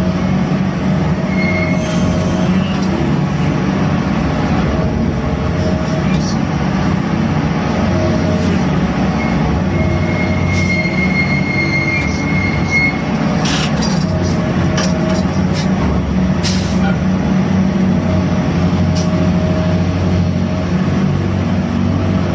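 A gut ship's grab crane machinery running steadily, with a high squeal from about ten to thirteen seconds in and scattered clanks.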